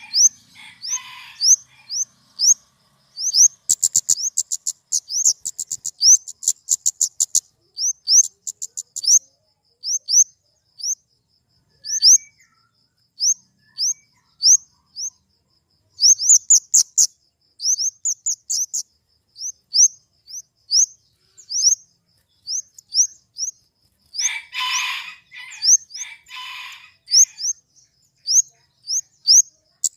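Flowerpecker (kemade) calling: short, high, thin chips in quick runs, with a few harsher, rasping calls near the start and again near the end.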